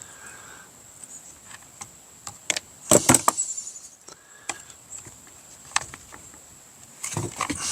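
Sharp clicks and light clatter of a small Torx driver and plastic housing parts being worked on a string-trimmer shell, with a cluster of louder clicks about three seconds in. A thin steady high tone sits behind it.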